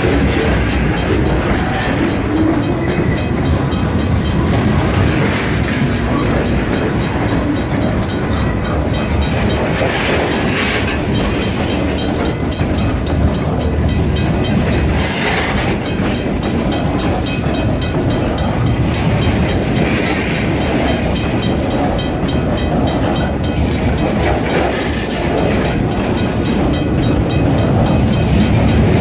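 Freight train rolling past, its wheels clacking steadily over the rail joints, with a few brief higher-pitched flares along the way.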